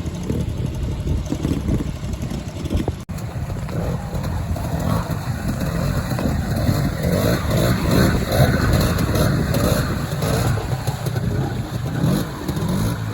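Classic trials motorcycle engine running and revving unevenly while being ridden through an observed section, with a momentary dropout about three seconds in.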